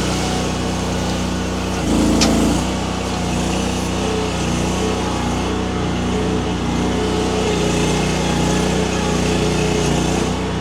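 Small engine of a Baumalight mini skid steer running steadily. It gets briefly louder about two seconds in, with one sharp click.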